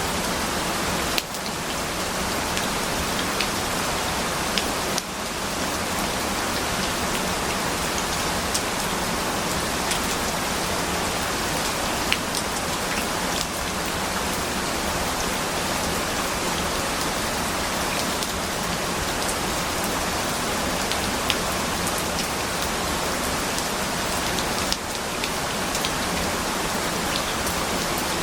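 Steady rain, an even hiss with scattered sharp drop ticks; the level dips briefly about a second in, about five seconds in and near the end.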